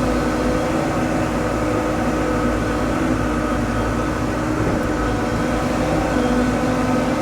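Heavy-equipment diesel engine running steadily at an even speed, with a constant hum.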